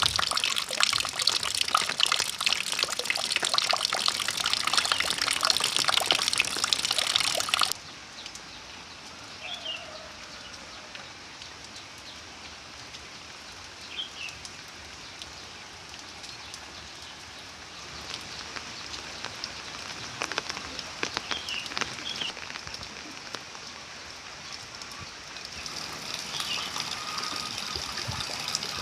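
Heavy rain pouring down in a dense hiss, which drops abruptly to a softer, steadier rain about eight seconds in. A few short bird chirps come through the quieter part.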